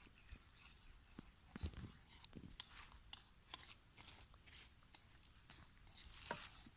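Faint, irregular crackling and small clicks from cooking over a campfire, with a louder rustling burst about six seconds in.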